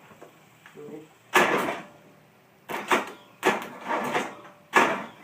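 Engine sputtering in a run of loud, irregular pops and coughs, about six bursts, without catching and running: a failed start attempt.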